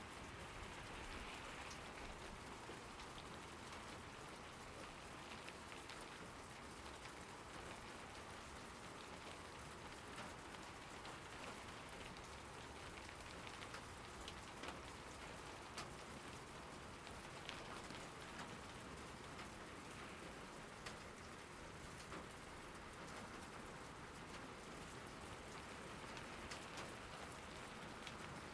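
Steady rain falling on surfaces, an even hiss with scattered individual drops ticking through it.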